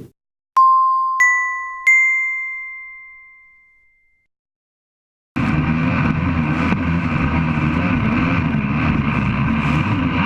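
Three clean electronic dings, the second and third higher than the first, each ringing out and fading. After a short gap a motor starts running steadily under a rushing hiss, then cuts off abruptly.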